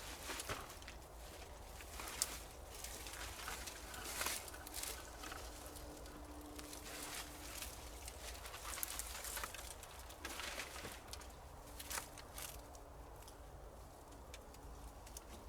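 Rustling of dry leaf litter with scattered sharp cracks of twigs, as firewood sticks are gathered and stepped on.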